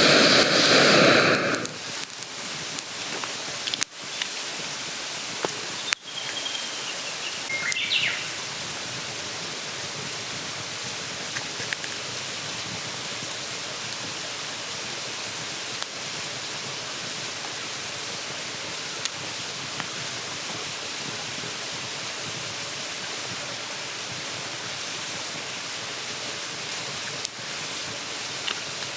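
Mountain stream running with a steady, even rush. A much louder rushing burst fills the first second and a half, and a bird chirps briefly about eight seconds in.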